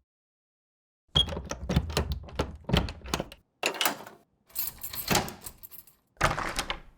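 A quick irregular series of sharp knocks and clatters, in clusters of several a second, after a second of silence.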